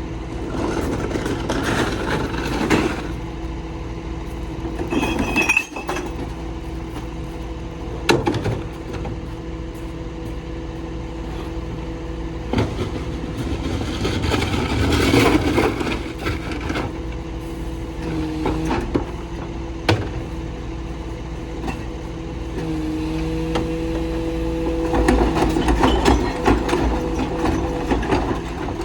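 Mini rear-loader garbage truck running with a steady hum, while recyclables clatter and glass clinks as carts are tipped into the hopper, with a few sharp knocks. About two-thirds of the way through, the hum steps up in pitch and a second, higher tone joins it.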